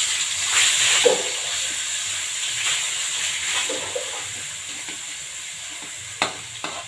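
Ground spice paste sizzling in hot oil in a wok while a spatula stirs it, the sizzle slowly fading. A spatula knocks sharply against the wok about six seconds in.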